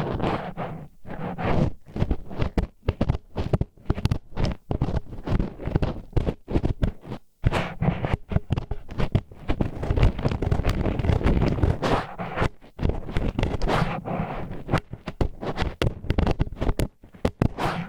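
Disposable wooden chopsticks scraping and rubbing inside a microphone's ear, a dense run of quick, irregular grinding strokes with one brief break a little past the middle.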